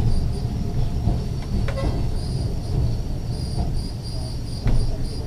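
Ex-Liverpool Corporation tram 869 running along its track: a steady low rumble from the wheels and running gear, with a sharp click about a second and a half in and another near the end. A faint high squeal comes and goes.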